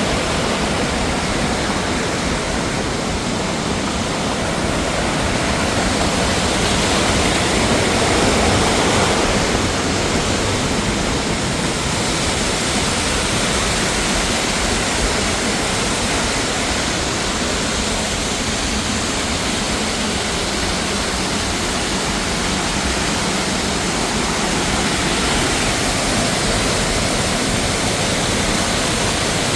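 Rushing mountain water, a steady, even rush of falling or tumbling water that swells slightly about a third of the way in.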